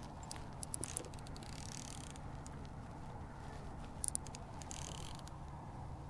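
Handling noise: scattered light clicks and rattles with a couple of brief rustles, over a steady low rumble of wind on the microphone.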